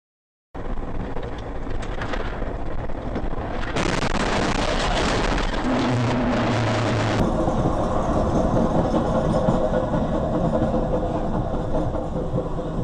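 Car on the move: steady engine and road noise that starts abruptly after a moment of silence, with a louder, hissier stretch from about four to seven seconds in.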